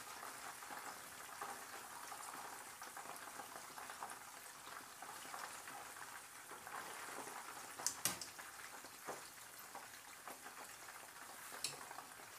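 Wontons frying in a pan of hot oil: a steady, faint crackle and bubbling. Two sharp clicks cut through it, about eight seconds in and again near the end.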